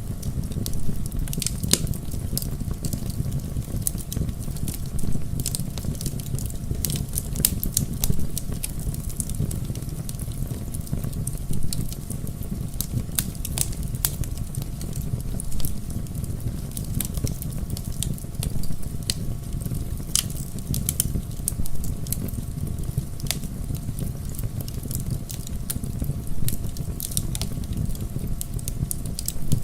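Wood bonfire burning: frequent irregular sharp crackles and pops of burning logs over a steady low rumble of the flames.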